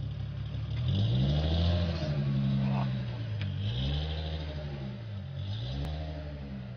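Supercharged 2.9-litre VR6 engine of a Volkswagen Golf Mk3 revved three times from idle, the pitch rising and falling on each, the first rev the longest and loudest, with a high hiss coming up on each rev.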